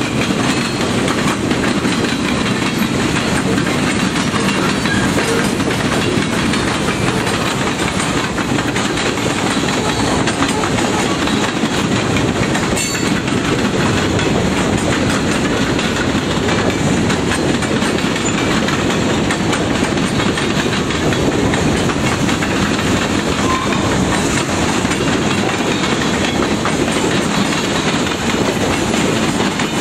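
Freight train cars rolling past: a steady loud rumble with the clickety-clack of steel wheels over rail joints.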